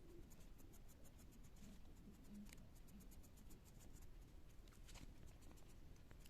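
Pencil scratching on paper in quick, short strokes, faint, with a couple of firmer strokes partway through.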